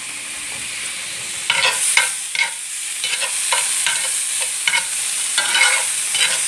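Diced celery, green pepper and onion sautéing in butter and oil in a pan, sizzling steadily. From about a second and a half in, a utensil stirs and scrapes through them, about two strokes a second.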